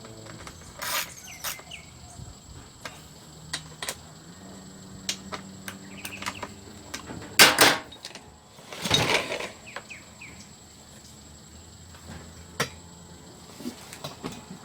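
Scattered clicks and knocks of parts and tools being handled, with two louder knocks about halfway through, over a steady faint high-pitched insect chirring.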